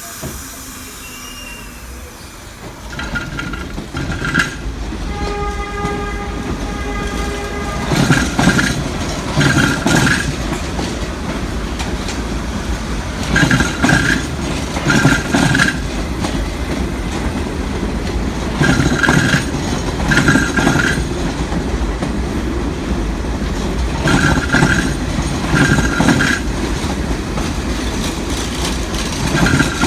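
A train passing slowly through a station, with a steady low rumble. A horn-like multi-tone note is held for about three seconds. Then a strange rhythmic noise comes in pairs of short knocking bursts that repeat about every five seconds, in step with the wheel sets of successive cars.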